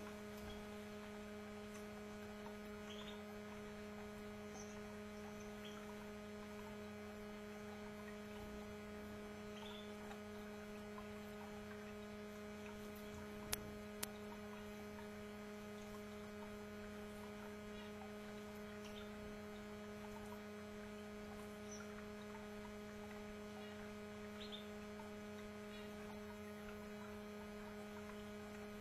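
Steady electrical hum made of a few steady tones, with a handful of faint, brief high chirps from canaries scattered through it. About halfway through come two sharp clicks half a second apart.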